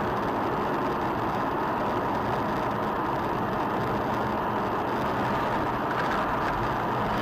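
Steady noise of a car on the move, engine and road noise running evenly with no sharp events.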